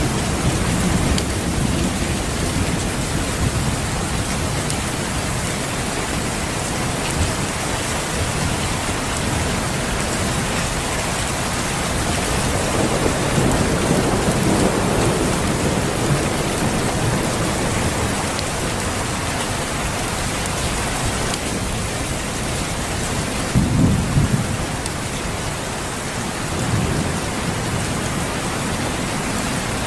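Steady rain with thunder rumbling low in the background, the rumble swelling about halfway through and again briefly past the three-quarter mark.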